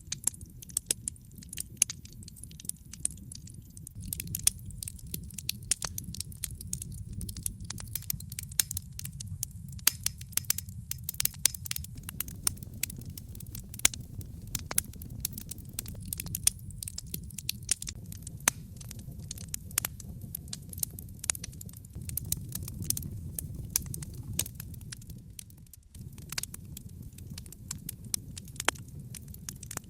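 Wood fire of burning logs in a fireplace, crackling with many sharp irregular pops and snaps over a low steady rumble of flames.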